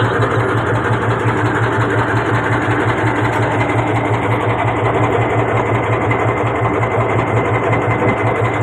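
Small boat engine running steadily at an even speed, with a fast, regular chugging pulse.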